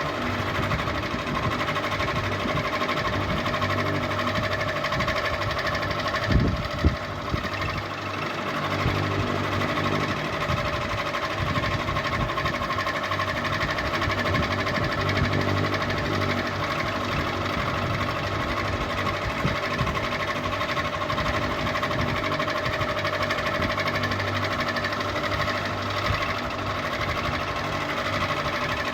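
Ceiling fan running steadily, a constant mechanical hum with a higher whine above it, with a brief knock about six and a half seconds in.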